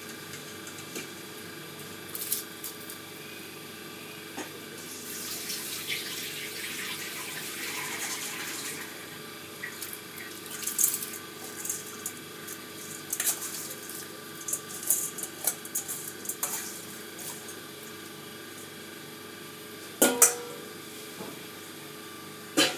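Water pouring and splashing for a few seconds as soaked basmati rice is tipped out, then scattered clinks and knocks of a spoon and pot, over a steady kitchen hum.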